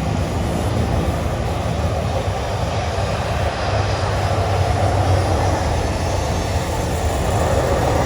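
Jet airliner engines running with a steady, even rushing noise.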